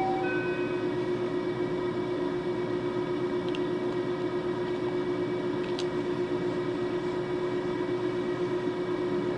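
Interior of a 521 series electric train: the last notes of an electronic door chime in the first second, then a steady, unchanging electrical hum from the train's equipment.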